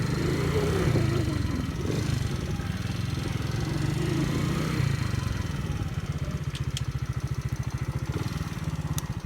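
Forte Alpha 125 cc motorcycle engine running as the bike pulls away in first gear and rides off. Its note rises and falls over the first few seconds, then settles into steady pulsing before dropping away at the very end.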